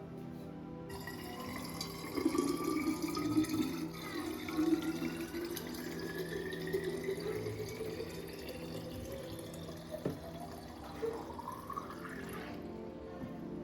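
Water running from a kitchen tap into a container, the pitch of the stream rising steadily as the container fills. The flow stops near the end.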